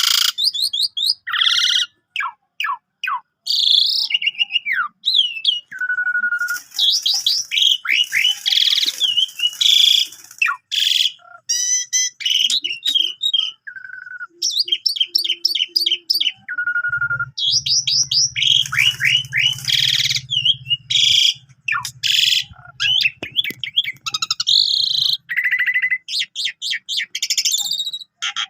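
Pied starling (jalak suren) singing a fast, varied song of whistles, rising and falling notes and chattering phrases, in bursts separated by short pauses.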